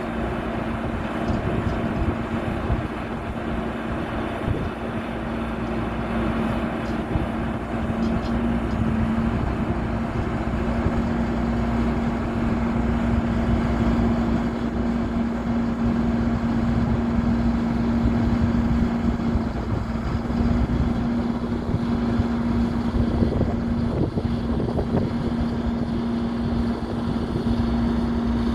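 Diesel engine of a heavy crane truck running steadily, with a constant hum.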